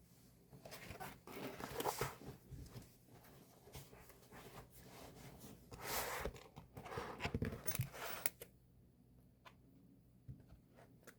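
Paper and plastic from a K-pop album's packaging rustling and crinkling as it is handled, in irregular bursts, then quieter with a few small clicks from about eight and a half seconds in.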